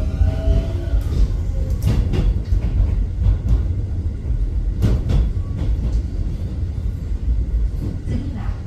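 Keio electric train heard from inside the car while running: a heavy steady rumble of wheels on rail with a few sharp knocks from rail joints, and the motors' gliding whine fading out in the first second or so.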